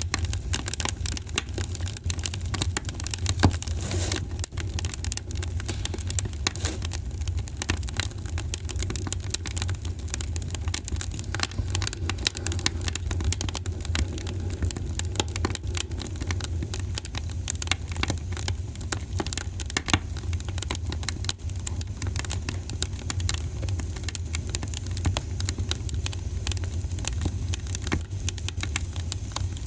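Wood fire burning steadily, with a low rumble and many sharp crackles and pops.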